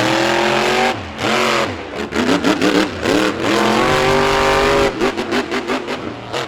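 Monster truck engines revving hard, the pitch climbing and falling with the throttle. About five seconds in they break into a rapid stutter of quick on-off throttle bursts.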